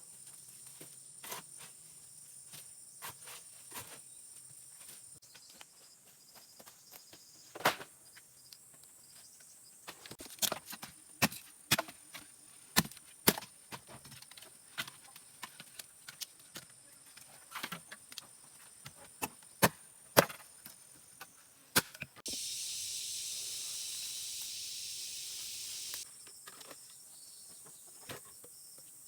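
Irregular sharp wooden knocks and snaps, as of sticks being broken and handled, over a faint high insect buzz. About 22 seconds in, a harsh hiss starts abruptly and cuts off about four seconds later.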